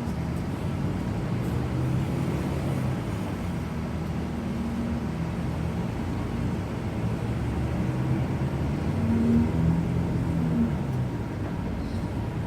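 Bus diesel engine running on the road with tyre and road noise, its pitch shifting up and down. It is loudest about nine seconds in.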